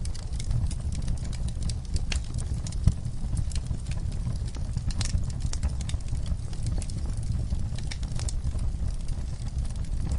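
Wood fire crackling: irregular sharp pops and snaps over a steady low rumble of the burning fire, with one louder pop about three seconds in.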